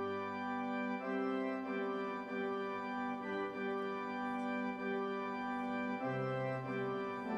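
Organ music: slow held chords, changing about once a second.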